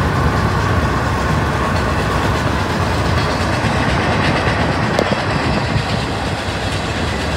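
Freight train of autorack cars rolling past, a steady rumble of wheels on rail, heard from a car driving alongside.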